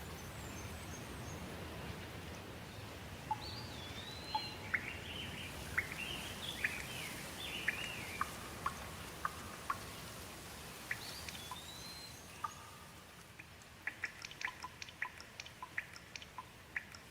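Birds calling with quick rising and falling whistled notes over a steady hiss of rain, which fades away after about twelve seconds. Near the end comes a quick run of short sharp ticks.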